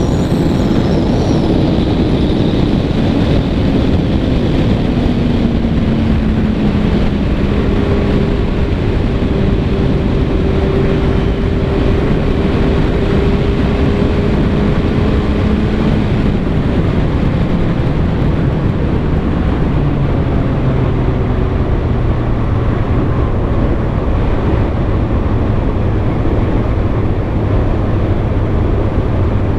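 Kawasaki ZX-6R 636's inline-four engine running at highway speed in the rain, under a loud constant rush of wind and spray. The engine note eases down a little a few seconds in and again about twenty seconds in.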